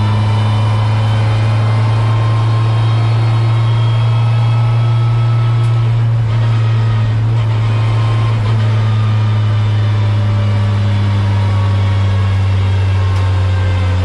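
Ford Fiesta ST150's four-cylinder engine heard from inside the stripped race-car cabin, running at steady moderate revs under light throttle at about 50 mph.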